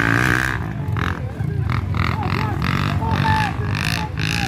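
Dirt bike engines running and revving, with people's voices over them.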